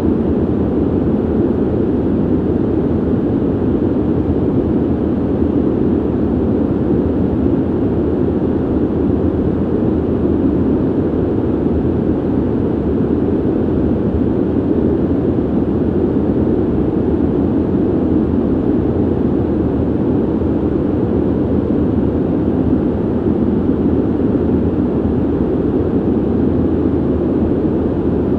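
Steady ventilation noise: an even, dull hiss weighted to the low and middle range, with no tones and no changes.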